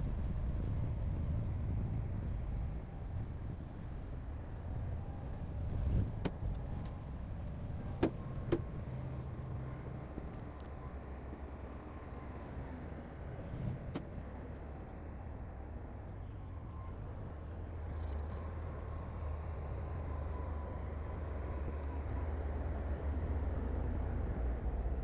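Heavy diesel earthmoving machinery running with a steady low rumble, broken by a few sharp knocks, two of them close together about eight seconds in.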